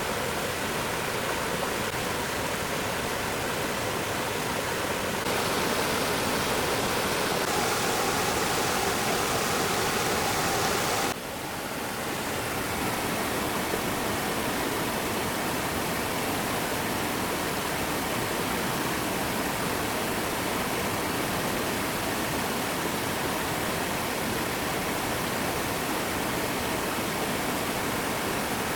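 Steady rush of flowing stream water, its tone shifting abruptly about five seconds in and again about eleven seconds in.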